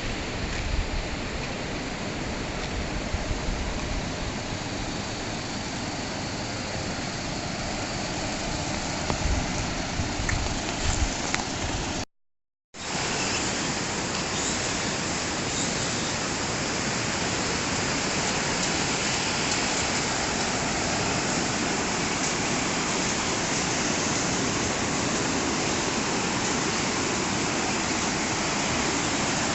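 Steady rushing of the Hidaka River running high after a typhoon and a large dam release. The sound drops out briefly about twelve seconds in, then the rushing goes on.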